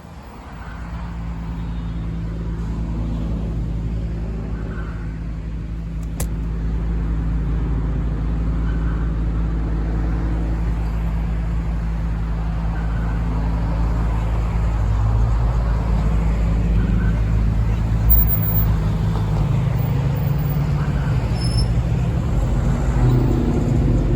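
Car engine running with a steady low hum, picking up in pitch about fifteen seconds in as the car speeds up. A single sharp click about six seconds in.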